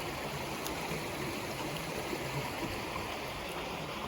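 Floodwater rushing steadily, an even continuous flow with no breaks.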